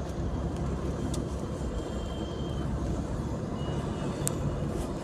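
Steady low rumble of a car driving along a road, with a faint thin high tone about two seconds in and a light click near the end.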